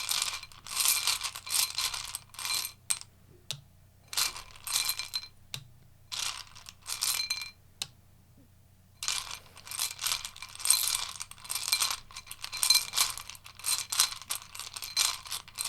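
Tarot cards being shuffled by hand: bursts of rapid, crisp clicking and flapping, with short pauses between bursts and a longer pause of about a second midway.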